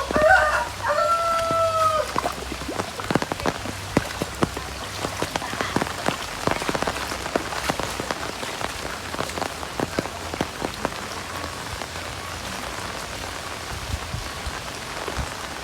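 Heavy rain falling, with many separate drops ticking on nearby surfaces. A rooster crows once in the first two seconds, a rising then held call.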